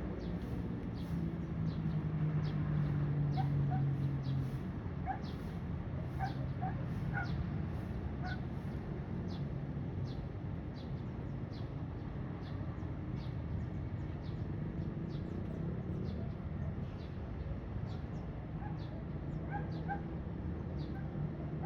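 Birds chirping over a steady low rumble, with a short high chirp repeating about once or twice a second among scattered lower chirps.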